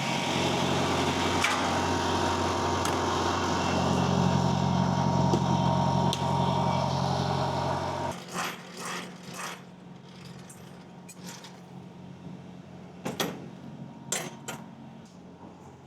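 Semi truck's diesel engine running, with a loud rushing noise over it that cuts off suddenly about eight seconds in; after that the engine carries on more quietly, with a few sharp clicks and knocks.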